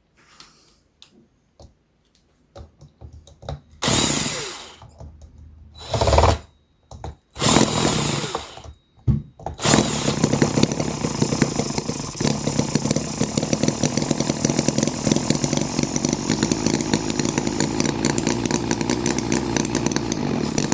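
Microcosm H75 Holt model petrol engine firing in a few short bursts, then catching about ten seconds in and running steadily with a rapid, even beat, its fuel needles just reset.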